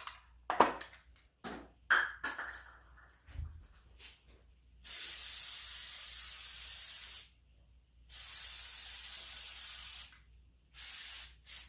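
Aerosol can of Flex Seal rubber sealant spraying in three bursts of steady hiss: one of about two and a half seconds, one of about two seconds, and a short one near the end. The bursts follow a few short clicks.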